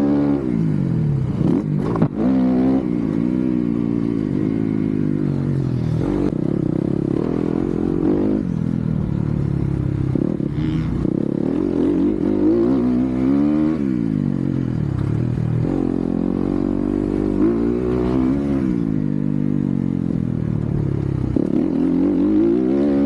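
Motocross dirt bike engine being ridden hard, its pitch climbing and dropping repeatedly as the rider revs out, shifts and rolls off for jumps and corners. There is a sharp knock about two seconds in.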